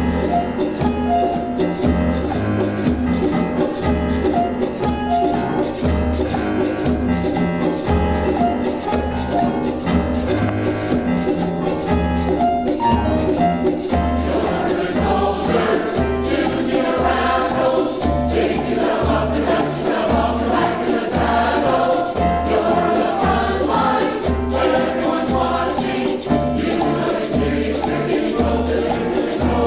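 Choir singing a rhythmic song over a steady beat of shakers and a low drum. The voices grow fuller about halfway through.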